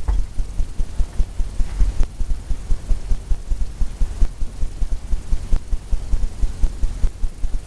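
A paintbrush working oil paint into a stretched canvas, blending with quick strokes that carry through the canvas as rapid, irregular low thumps, about three or four a second.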